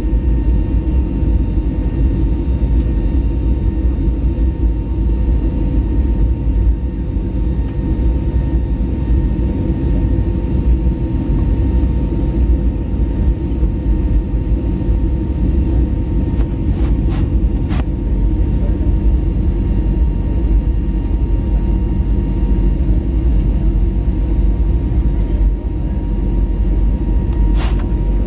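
Airbus A321neo jet airliner noise: a steady low rumble with a faint steady whine over it.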